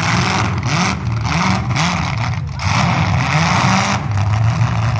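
Demolition derby car engines revving up and down in surges, with loud bursts of exhaust noise that come and go.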